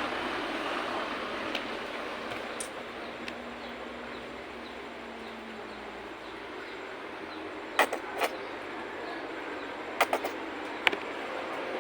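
Steady hiss of falling rain, with a few sharp clinks of cutlery on a bowl: a pair about eight seconds in, then a quick cluster and a last single clink near the end.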